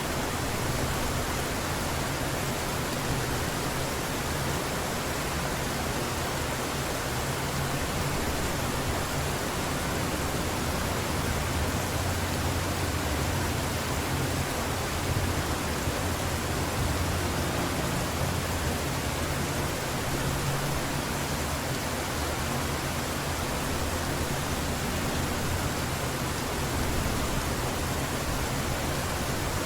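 Heavy rain falling steadily, an even hiss with no breaks or thunderclaps.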